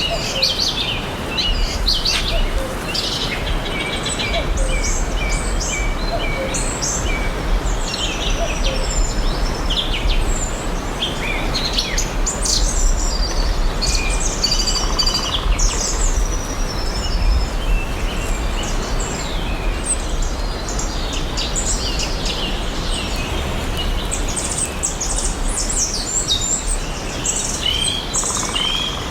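Many songbirds chirping and singing together, with short overlapping calls and trills, over a steady background hiss and a low rumble.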